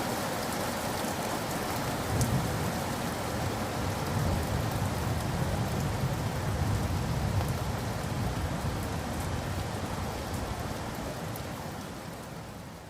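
Steady rain falling, with a low rolling rumble of thunder from about two seconds in. The sound fades out near the end.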